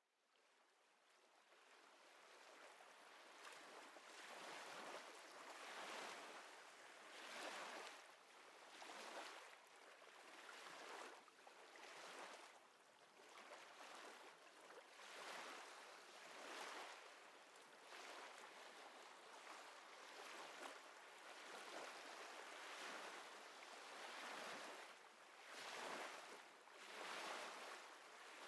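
Small waves lapping at the water's edge, fading in over the first few seconds, then a soft wash that swells and eases about every one and a half seconds.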